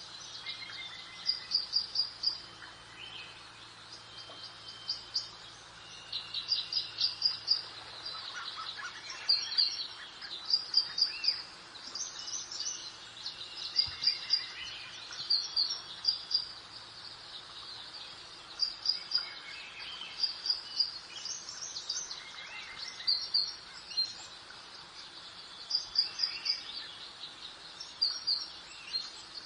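Garden birdsong: short, high chirped phrases repeating every second or two, over a soft, steady background hiss.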